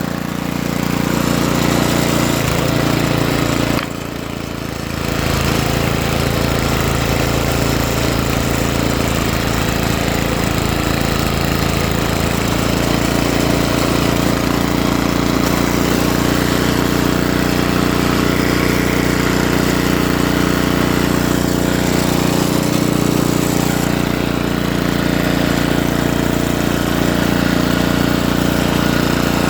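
Ariens ST504 snowblower's 5 hp Tecumseh single-cylinder engine running steadily at speed with the thrower engaged. It dips briefly about four seconds in, then runs on evenly.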